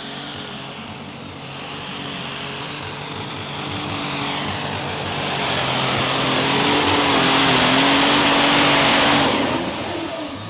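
Super stock pulling tractor's engine running flat out under load with a steady high whine, growing louder as it comes down the track. About nine seconds in, the engine backs off and the sound falls away quickly.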